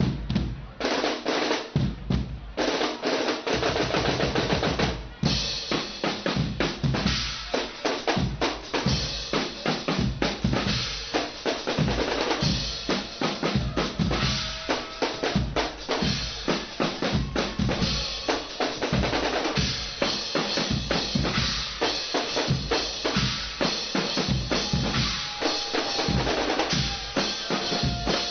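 Guggenmusik percussion section playing a fast, driving drum groove on bass drums and snare drums. A brighter, busier layer joins about five seconds in.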